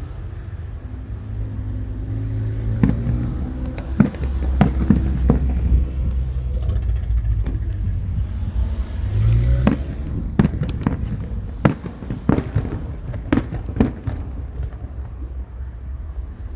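Aerial fireworks shells bursting overhead: a string of sharp bangs at irregular intervals, coming faster in the second half, over a low steady rumble.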